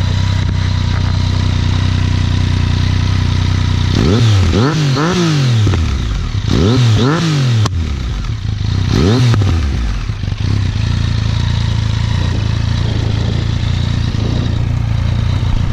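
Yamaha FZ-09's inline-three engine through an Akrapovic carbon fibre exhaust with the dB killer baffle in, idling mellow and steady. About four seconds in, the throttle is blipped several times, each rev rising and falling in pitch. After about ten seconds it settles back to idle.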